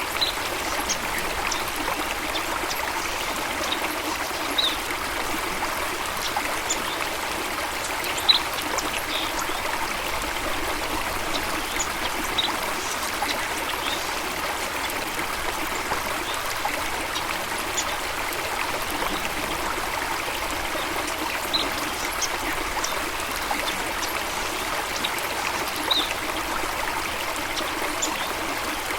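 Water running steadily, as in a stream or small waterfall, in an even rushing flow. Short high-pitched sounds stand out every few seconds, the sharpest about eight seconds in.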